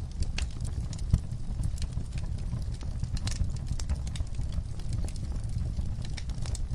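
Wood fire in a fireplace crackling: irregular sharp pops and snaps over a low steady rumble of the flames, with one louder pop about a second in.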